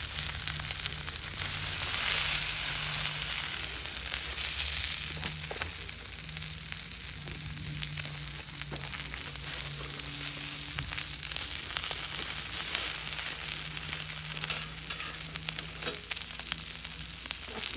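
Meat sizzling on a 6 mm thick steel griddle plate: a steady frying crackle full of small pops, busiest a couple of seconds in, over a low steady hum.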